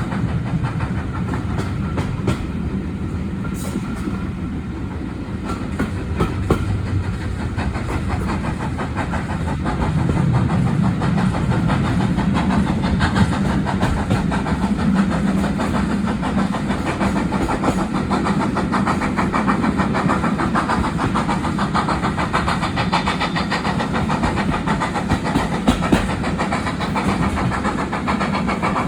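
Heritage railway passenger train running along the line: a steady rumble with wheels clicking over rail joints, a little louder from about ten seconds in.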